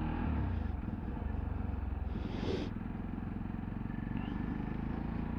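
Motorcycle engine running steadily while riding, with a short hiss about two seconds in.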